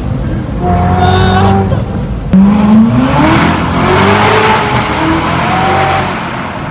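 Chevrolet Corvette C6 ZR1's supercharged V8 under hard acceleration. The engine note climbs steeply about two seconds in, then a loud rush of exhaust takes over and eases off near the end.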